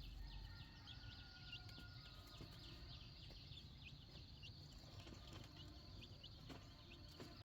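Faint, rapid high chirps from small birds, each chirp falling in pitch, several a second, over a steady high-pitched hum.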